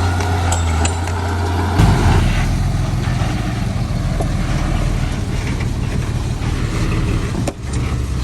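Heavy diesel engine of earthmoving machinery running steadily. Its note changes abruptly about two seconds in, with a knock, and there is a brief drop in level near the end.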